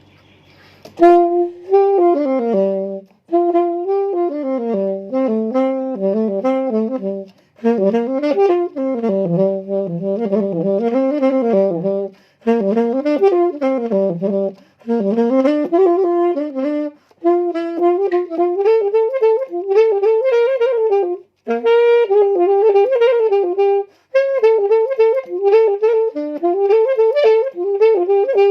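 Solo saxophone playing a Thai Isan lam phloen melody in lively phrases, pausing briefly for breath about every two to five seconds.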